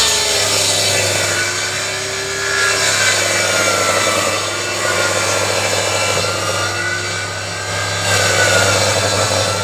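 Table saw cutting through wood: the blade's whine drops in pitch and wavers as the blade takes the load, over a steady rasp of sawing.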